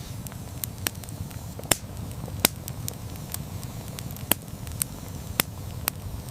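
Campfire burning: a steady low rumble of flames with sharp, irregular crackles and pops from the burning wood, a few of them louder than the rest.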